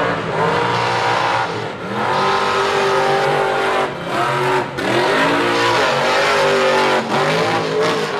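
Mega truck engine revving hard, its pitch climbing and falling again and again, with a few brief drops where the throttle is lifted.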